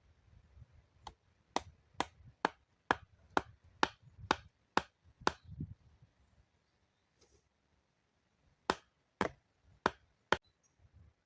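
Wood being chopped: a run of about ten sharp strikes, roughly two a second, a pause of a few seconds, then four more strikes.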